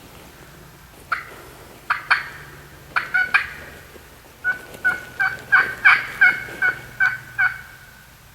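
Hen turkey yelps: a few separate notes, then a steady run of about ten evenly spaced yelps, loud and close.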